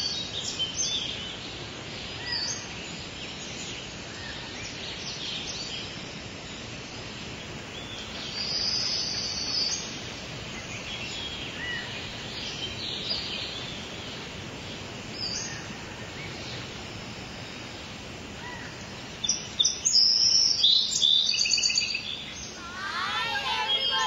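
Forest birds chirping and calling in bursts, loudest about twenty seconds in, over a steady rushing background noise.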